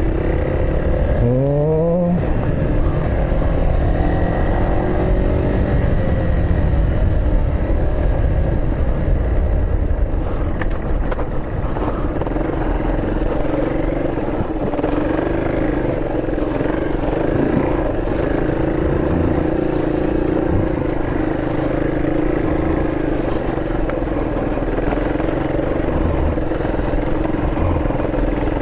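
Vehicle engine running under way. It revs up in the first couple of seconds, then runs steadily with a low rumble.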